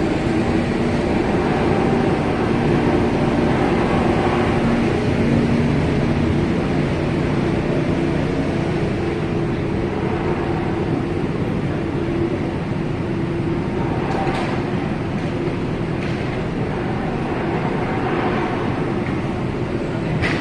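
Steady mechanical rumble with a low drone held throughout.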